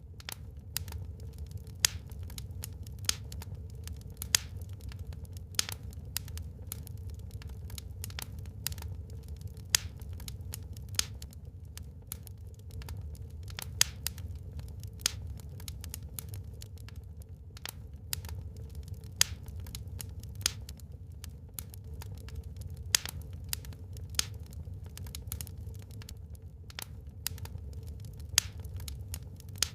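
Wood fire burning in a fireplace, crackling with irregular sharp pops, a few of them much louder, over a low steady rumble.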